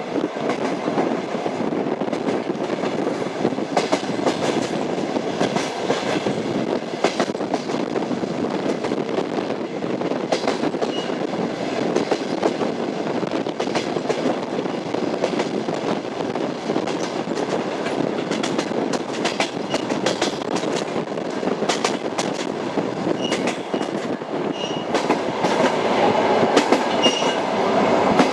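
Train running on rails: a steady rumble with the wheels clattering over the rail joints, and a few short faint high squeaks. It grows louder over the last few seconds.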